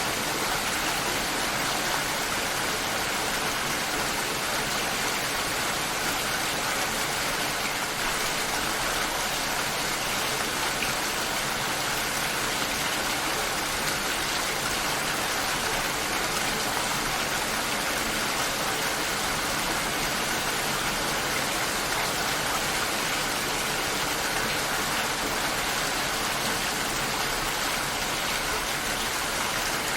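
Steady rain shower, an even hiss of falling rain that holds constant throughout.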